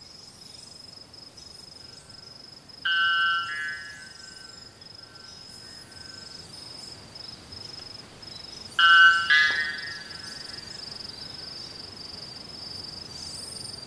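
White bellbird calling: two loud, metallic, bell-like calls, one about three seconds in that rings out briefly, and a louder two-part call about nine seconds in.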